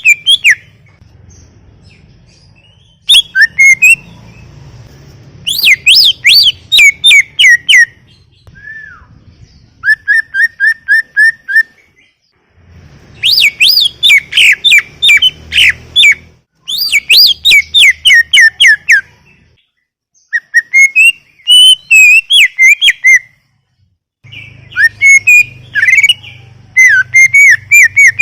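Green leafbird (cucak ijo) singing loud phrases of fast, repeated chirping notes. About seven phrases come in quick succession with short pauses between them.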